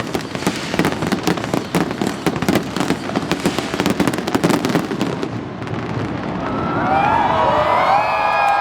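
Fireworks crackling and banging in rapid, dense bursts, dying away about five seconds in; then a crowd cheering, with many overlapping wavering whoops and whistles.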